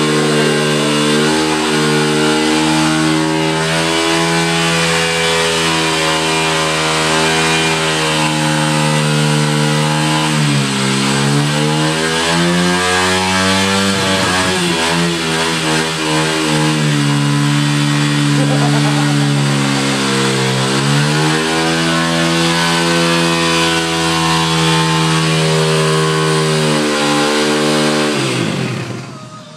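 Yamaha TT-R125 dirt bike's single-cylinder four-stroke engine held at high revs in a burnout, with the rear tyre spinning. The revs dip and climb back twice, then fall away near the end.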